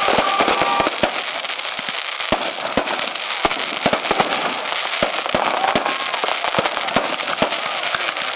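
Fireworks display: a dense, continuous run of crackling pops and bangs, several a second, over a steady hiss.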